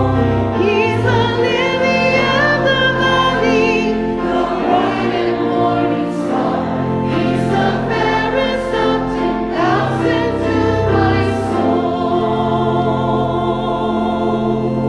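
Choir singing a hymn in parts, with voices in vibrato over steady instrumental accompaniment.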